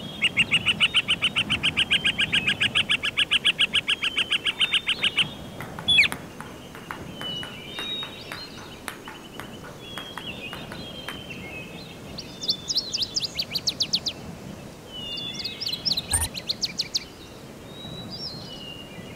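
Forest birdsong: a loud, fast, even trill for about five seconds, then scattered chirps, then two shorter, higher trills.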